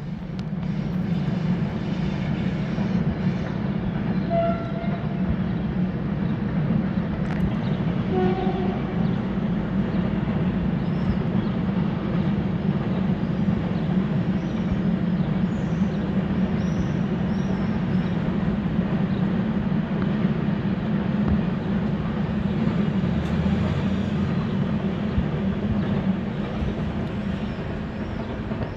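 E494 electric locomotive hauling a container freight train past, with the steady heavy rumble of the locomotive and wagons on the rails. Two brief high tones sound about four and eight seconds in.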